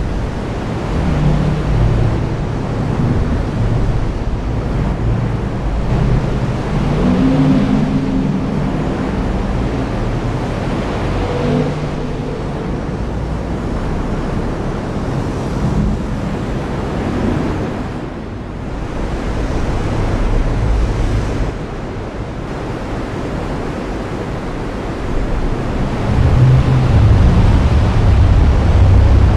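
Heavy rain falling steadily, with low thunder rumbling, swelling and fading, loudest near the end.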